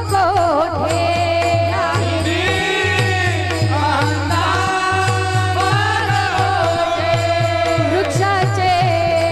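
Devotional kirtan music: a melody of long, wavering held notes over a steady drum beat of about three strokes a second.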